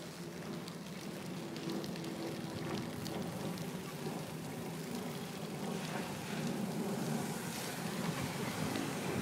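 Bicycle rolling along a road: a steady rumble of tyres on pavement mixed with wind rushing over the phone's microphone. It grows gradually louder, with a few faint clicks.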